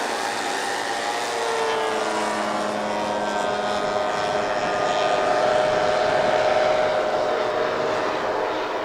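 Four-engined 1/6-scale model Avro Lancaster bombers, each with four Zenoah 38 two-stroke petrol engines, flying past together. Many engine tones run on top of each other, and some of them dip in pitch as the aircraft go by.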